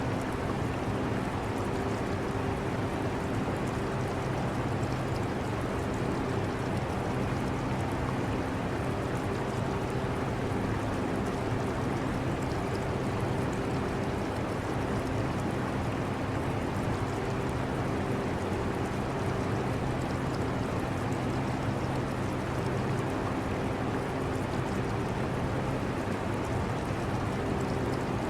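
Air conditioner running with a steady rush of air and a low hum that fades in and out, mixed with the trickle of aquarium water.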